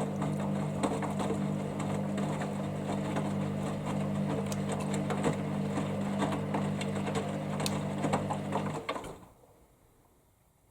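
Hoover Dynamicnext washing machine tumbling its drum during the rinse: a steady motor hum with the slosh and clatter of water and laundry. About nine seconds in the motor stops and it falls nearly silent as the drum comes to rest.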